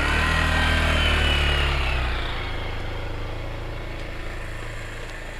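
Motorcycle engine running, loudest for the first couple of seconds and then fading away as it moves off.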